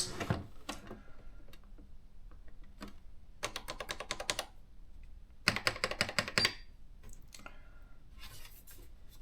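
Electronic typewriter keys clicking in two quick runs of about ten clicks a second, with a fainter run near the end and a few single clicks. The owner says the machine's electronics have failed.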